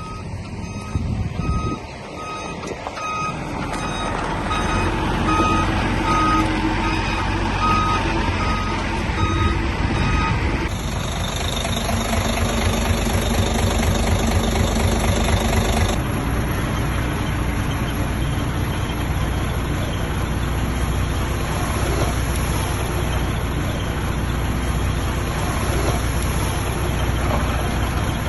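A dump truck's reversing alarm beeping about one and a half times a second over its diesel engine running. The beeping stops about ten seconds in, and steady heavy-machine engine noise carries on.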